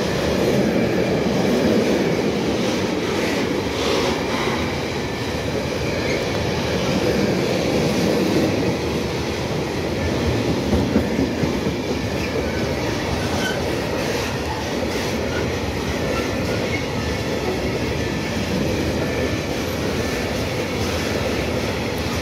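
Freight train of tank wagons rolling past: steady rumble and clatter of the wagon wheels on the rails, with faint ticks from wheels over the rail joints and a thin wheel squeal now and then.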